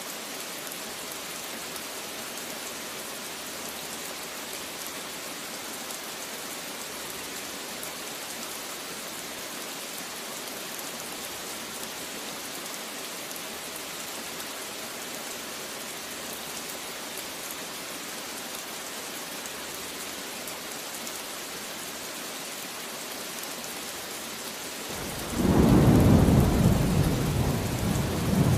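Steady rain falling, an even hiss, until a loud low rumble of thunder breaks in near the end and keeps rolling over the rain.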